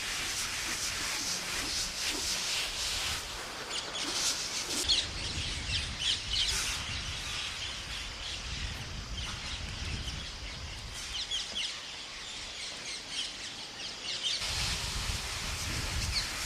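A flock of parrots chattering, with many short, quick chirps overlapping throughout, over a low rumble that comes and goes.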